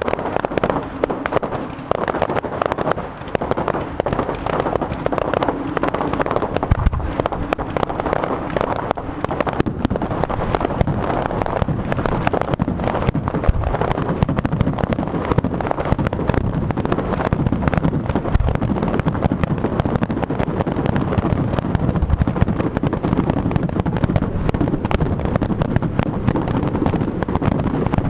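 Fireworks display: a dense, continuous barrage of bangs and crackling shells, the explosions packed closely together with no break.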